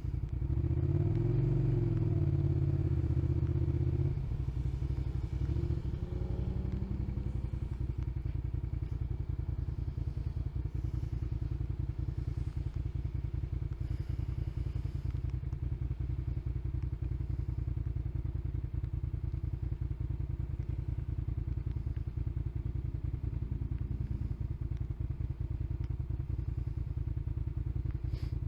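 Motorcycle engine running on the road. For the first four seconds it is louder, its pitch rising and falling as the bike accelerates, then it settles to a steady cruise.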